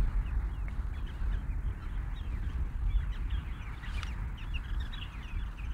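Parasitic jaegers giving alarm calls, a rapid, continual run of short falling notes, as they defend their ground against an intruder. A steady low rumble lies underneath, and a sharp click comes about four seconds in.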